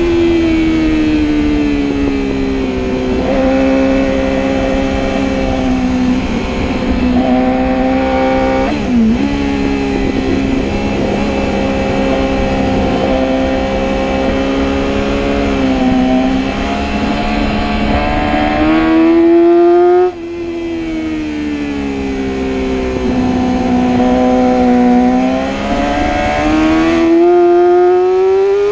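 Motorcycle engine heard from on board at track speed over steady wind and road rush. Its pitch holds, dips sharply about 9 seconds in, climbs under acceleration, drops suddenly as the throttle is closed about 20 seconds in, then climbs again near the end.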